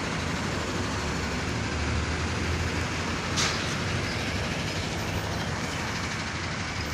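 Heavy truck's diesel engine running steadily, a low rumble with a noisy hiss over it, and a short burst of hiss about three and a half seconds in.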